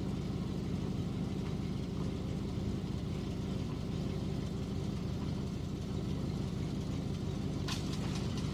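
A car engine idling steadily, with one short click near the end.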